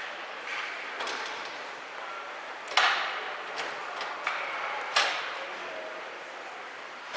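Ice hockey play on a rink: clacks of sticks and puck, with two sharp cracks about three and five seconds in and a few lighter clicks between them, over the steady noise of the arena.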